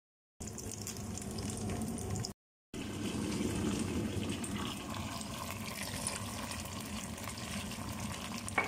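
Chicken wings sizzling in a pot on the stove: a steady frying hiss with small crackles, cut off by two brief drop-outs near the start.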